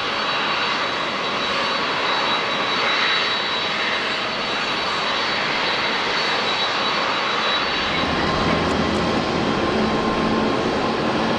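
Jet airliner engines running loudly: a Boeing 787-9 with a steady high whine, then about eight seconds in an abrupt change to the lower, fuller engine sound of a Boeing 767-300ER.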